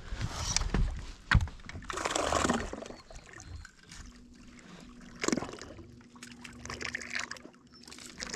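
Water sloshing and splashing against a small fishing boat's hull in irregular swishes, with a sharp knock about a second and a half in. A faint steady hum of the electric trolling motor comes in near the middle and fades out.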